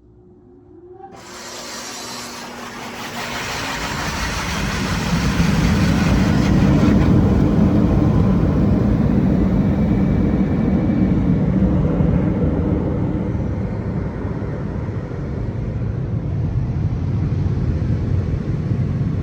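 Touchless car wash blower dryers starting up: a rising whine as the fans spin up about a second in, building over a few seconds into a loud, steady rush of air that holds.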